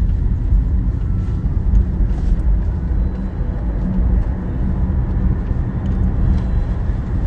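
Steady low rumble of cabin and road noise inside a Tesla electric car as it pulls through a left turn.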